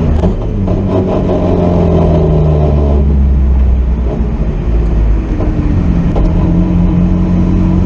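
Drift car engine running hard, its pitch dropping about three seconds in and climbing again from about five seconds.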